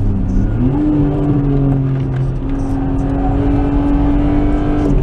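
Nissan Skyline R33's 2.0-litre RB20E single-cam straight-six, heard from inside the cabin on track: the engine note climbs in pitch about half a second in, then holds steady under power and drops slightly near the end.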